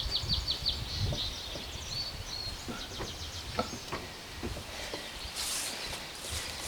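Outdoor ambience with birdsong: a quick run of high chirps at the start and a few short high whistled notes about two seconds in, over a low rumble with scattered small clicks and knocks.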